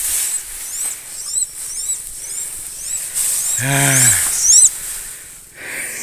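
A nestling bird giving a series of thin, high chirps, each a quick rise and fall, about two a second. A short voiced exclamation breaks in about four seconds in.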